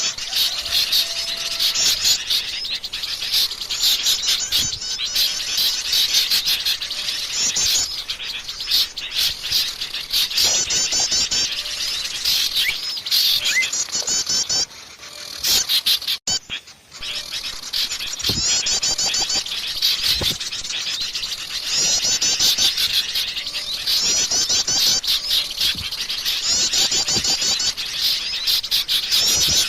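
A noisy chorus of small songbirds, many rapid high chirps and trills repeating over and over, as used in a bird-lure (pikat) recording. The sound drops out briefly about halfway through, then resumes.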